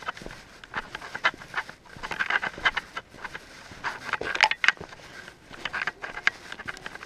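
Footsteps crunching and scraping along an icy trail, an uneven run of short steps.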